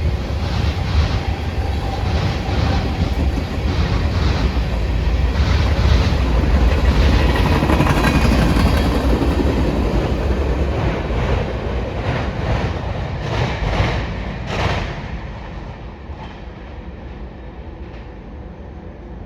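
CSX freight train's cars rolling past close by, steel wheels clicking over rail joints in a steady rumble. The sound drops off sharply about fifteen seconds in as the end of the train goes by.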